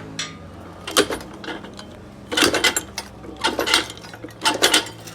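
Metal clattering and knocking in short clusters about once a second, over a low steady hum.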